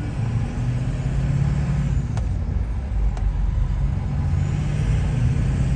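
Steady low rumble of a car driving on the road, heard from inside the cabin, with two faint clicks about a second apart.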